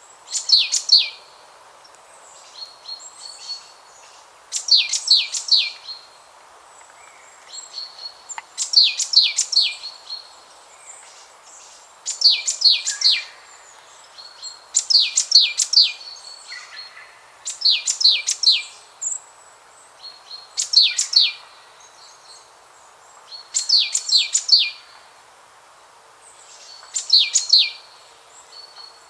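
A songbird repeating the same short phrase of fast, high notes about every three seconds, with softer notes between phrases, over a faint steady background hiss.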